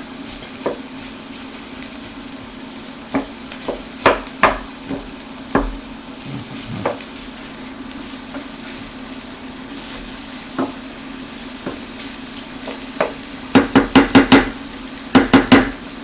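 Mushrooms sautéing in a pan with a steady sizzle as their water cooks out, while a utensil stirs them, knocking against the pan now and then. Near the end come two quick runs of taps, about four to five a second.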